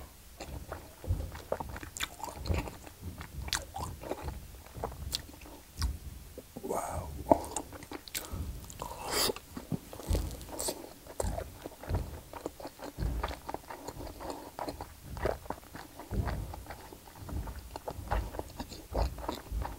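Chewing of a mouthful of pan-seared whole-block Spam, with irregular wet mouth clicks and smacks.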